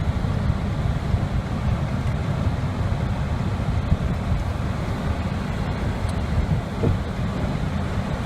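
Car driving on a snowy road in a snowstorm: steady low road and wind rumble.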